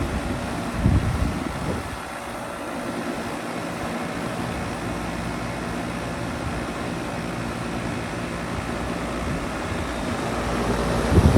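Carrier Sentry heat pump outdoor unit running with a steady mechanical hum and a low droning tone. Low thumps of rumble come about a second in and again near the end.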